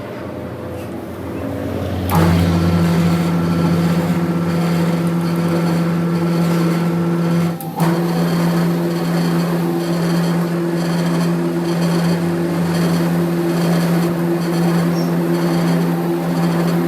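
A workshop machine's motor running with a steady, even hum that starts abruptly about two seconds in, breaks off for a moment with a click near eight seconds, then carries on.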